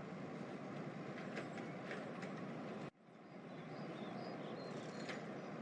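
Steady low background hiss with a few faint clicks. It cuts out abruptly about three seconds in and fades back up within a second.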